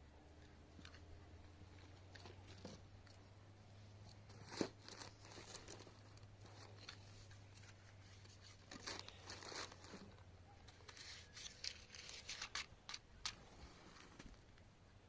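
Faint, scattered rustling and crinkling, as of something being handled, with a few sharp clicks. The loudest click comes about four and a half seconds in and another near the end.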